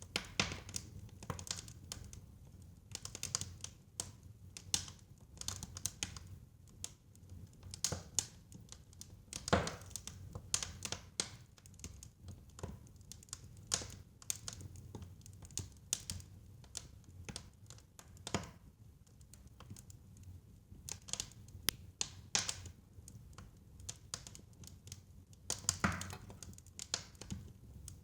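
Wood fire crackling in a fireplace: irregular sharp pops and snaps, some louder than others, over a low steady rumble of the flames.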